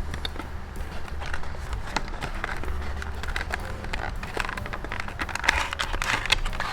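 Diecast car packaging being opened by hand: irregular crinkling and clicking of plastic and cardboard, over a low steady hum.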